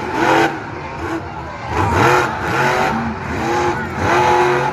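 Monster truck engine revving hard in repeated bursts, its pitch climbing and falling several times as the truck is driven through a freestyle run.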